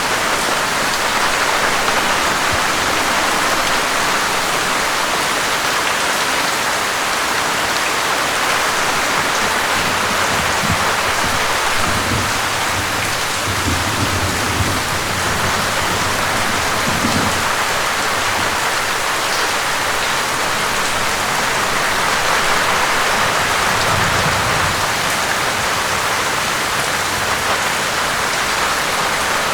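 Steady, heavy rain falling and pattering on surfaces, with a faint low rumble now and then in the middle and near the end.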